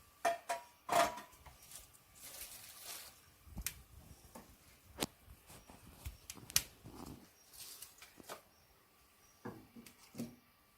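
Irregular clicks, knocks and brief rustles of things being handled, with no steady sound between them.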